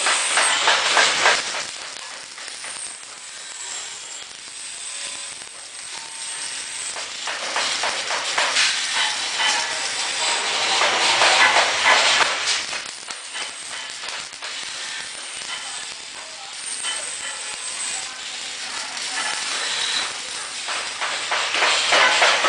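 Welding arc crackling and hissing, swelling and easing off in spells.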